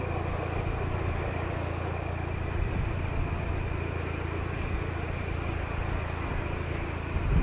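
Boeing 737-500 airliner's CFM56 jet engines running steadily: a low rumble with a faint steady whine above it.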